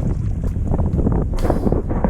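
Wind buffeting the microphone on an open kayak, a dense rumbling noise, with a few short knocks or splashes, the strongest about a second and a half in.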